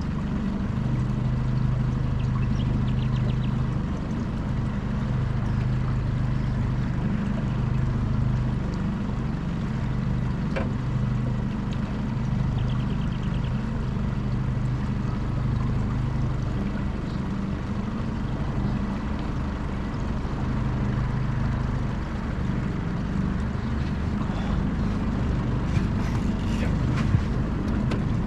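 Small boat's motor running steadily at low trolling speed, with water and wind noise over it.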